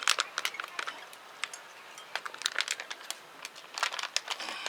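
Plastic food packaging being handled, a run of irregular crinkles and crackles, loudest right at the start and again about four seconds in.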